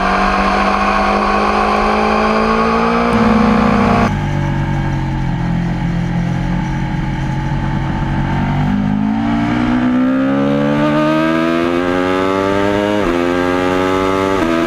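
Aprilia RSV4 APRC's 65-degree V4 engine under way: revs climb, fall sharply about four seconds in, run lower and fairly even for a few seconds, then climb again with two quick upshifts near the end.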